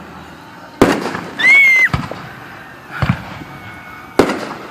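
Fireworks going off in a string of sharp bangs about a second apart, four in all, one of them faint. Shortly after the first bang a loud, high whistle sounds for about half a second.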